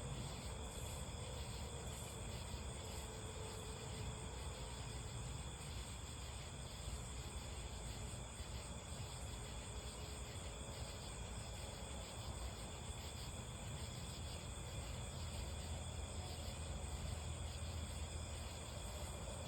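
Night chorus of crickets and other insects, a steady high chirring that runs on without a break, over a low steady rumble.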